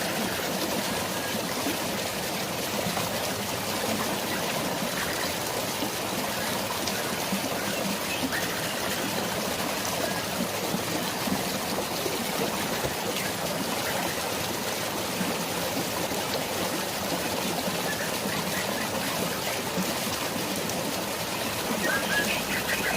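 Steady rush and splash of flowing water, a stream or small waterfall, with a few faint short bird chirps, more of them near the end.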